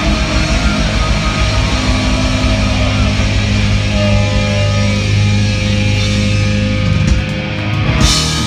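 Heavy metal band playing live, holding out a loud closing chord, with a sharp crash about eight seconds in.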